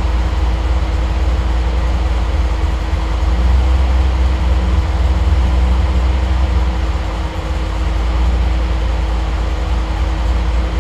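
Triumph TR8's Rover V8 idling steadily on Megasquirt fuel injection, just off warm-up enrichment and running a little lean while the idle is auto-tuned. The idle swells slightly for a few seconds near the middle.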